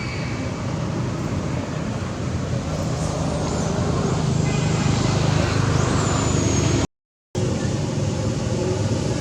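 Road traffic: motor vehicle engines running with a steady low hum that grows louder through the middle, as if a vehicle passes close by. The sound cuts out completely for about half a second near the end.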